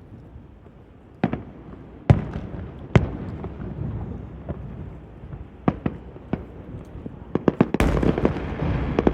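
Fireworks going off: three single loud bangs in the first few seconds, each trailing into a rumble, then scattered bangs, and from about seven seconds in a rapid run of crackling bursts.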